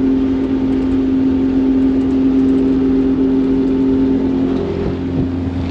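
1960 Austin-Healey Frogeye Sprite's small four-cylinder engine running steadily while driving, heard from inside the open car. About four and a half seconds in, its note drops lower.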